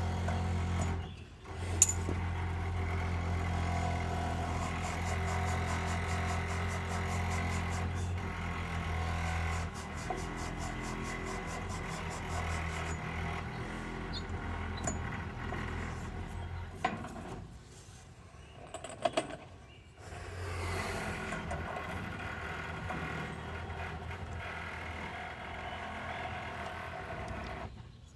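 Battery-powered hydraulic press tool running steadily as it crimps a press fitting, breaking off for a couple of seconds past the middle and then running again.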